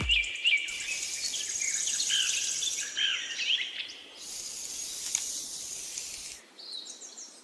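Nature ambience: short, quick bird chirps over a high, even hiss of insects that cuts in and out abruptly in stretches of a couple of seconds.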